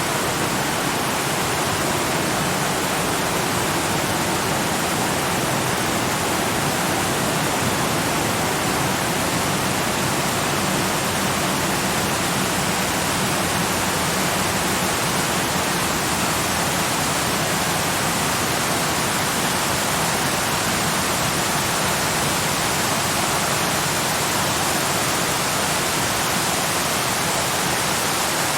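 Waterfall: a steady, even wash of falling water with no breaks or changes.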